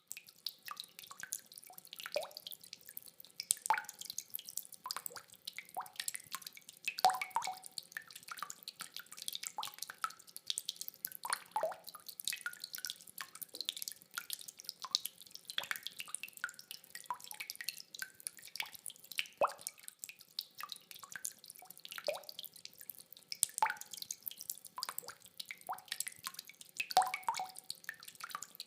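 Rainwater dripping: many separate drops and plops falling irregularly, several a second, some louder than others, with no thunder.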